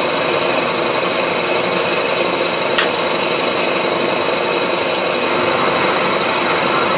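Milling machine running steadily: an even mechanical noise with a faint high whine, and a single sharp click about three seconds in.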